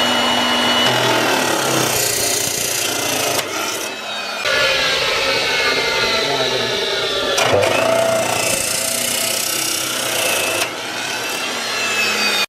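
Electric cutting machine running with its blade cutting into material, a steady rasping sawing sound over a high motor whine that sags and recovers as the load changes. There are short breaks near 4 s, 7.5 s and 11 s between passes.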